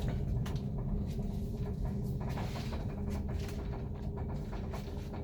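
Steady low hum inside a Kone lift car stopped at its floor, with scattered light clicks.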